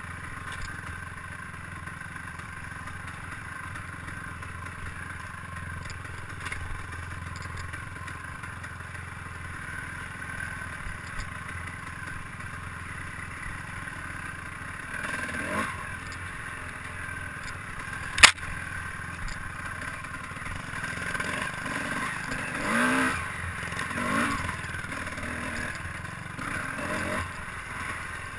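Steady running noise of a vehicle ride picked up by a body-mounted camera, with light rattling. There is one sharp knock about eighteen seconds in, and a few rising and falling pitch sweeps near the end.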